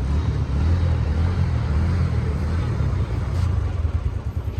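Royal Enfield Bullet single-cylinder motorcycle engine running, a steady low rumble that breaks into separate rapid beats near the end.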